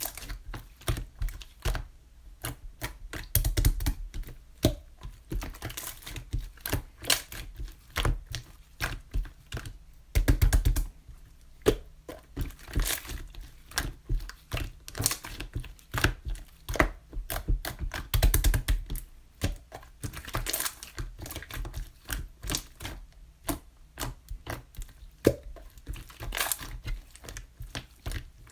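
Blue clear slime being pressed and folded by hand, giving off rapid, irregular clicks and pops of trapped air. Denser runs of clicking come about three, ten and eighteen seconds in.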